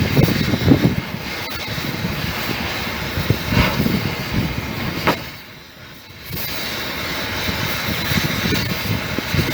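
Steady mechanical rumble with a hiss. It drops away briefly a little over five seconds in, just after a sharp click, then comes back.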